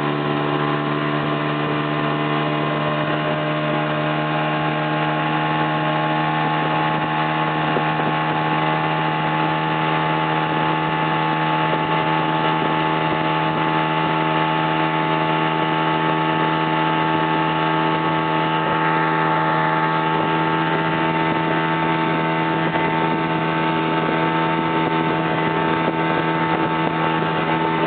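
Motorboat engine running steadily at speed, an unbroken even drone.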